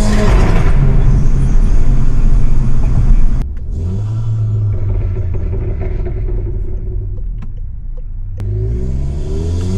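Stage 3 tuned VW Golf GTI Mk7's turbocharged four-cylinder with a decatted exhaust, pulling hard under load. About three and a half seconds in the throttle lifts with a sharp crack, and the car drops to a low exhaust drone with a few scattered pops. Near the end the engine pulls again, its pitch rising.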